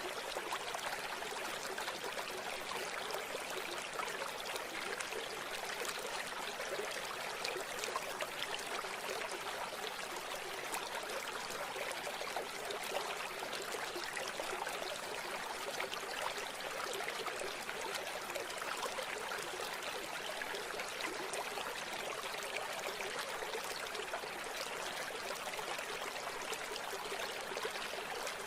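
A river flowing steadily, an even and continuous water sound with little deep rumble.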